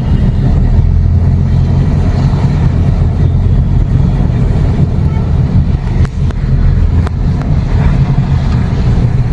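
Car driving along, a steady low rumble of engine and tyres, with two brief clicks about six and seven seconds in.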